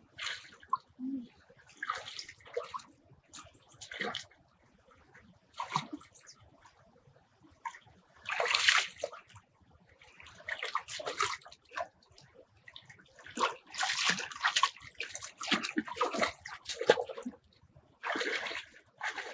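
Water sloshing and splashing in irregular bursts, each a second or so long, with quieter gaps between.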